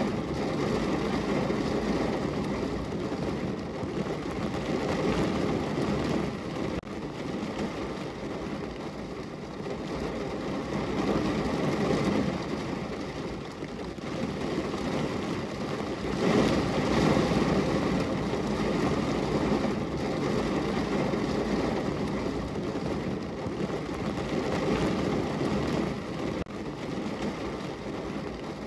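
Steady rain falling against a window: a dense, even rush with a deep rumble, swelling a little about twelve seconds in and again at about sixteen seconds.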